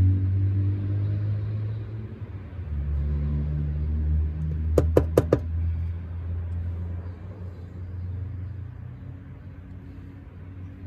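A motor vehicle engine rumbling low, dropping in pitch at first and then fading out. About five seconds in come four quick, sharp knocks.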